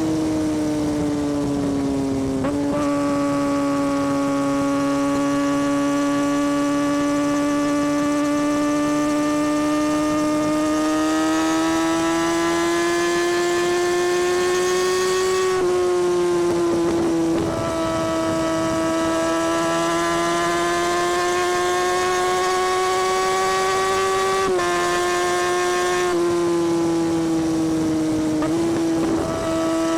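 Exhaust of a 2017 Kawasaki Ninja ZX-6R's inline-four engine under way, its note climbing slowly as the bike gathers speed. The pitch steps down abruptly a few times, at gear changes.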